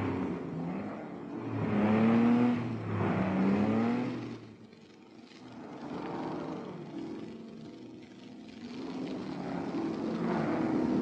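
Racing car engines revving hard as the cars pass at speed, their pitch climbing and falling with each gear change. The engine note is loudest about two seconds in, fades to a low around five seconds, then builds again toward the end as more cars approach.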